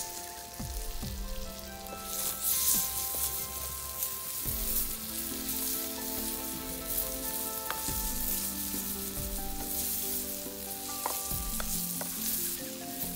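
Sliced onions, garlic and green chillies sizzling in hot oil in a clay pan and being stirred with a wooden spatula. The sizzle grows louder about two seconds in. Background music plays beneath it.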